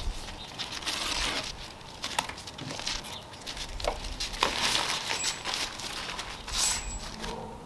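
Tape being peeled off a freshly hydro-dipped skateboard and crumpled: irregular crinkling and tearing with a few sharp clicks.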